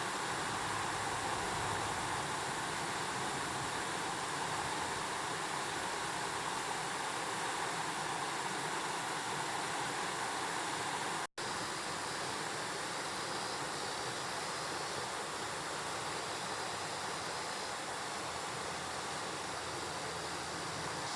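Mountain stream rushing over rocks in a steady, even wash of water noise, broken by a momentary dropout a little past halfway.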